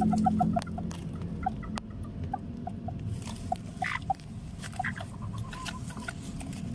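Serama chickens giving short, soft peeps at irregular intervals, with one louder falling call about four seconds in.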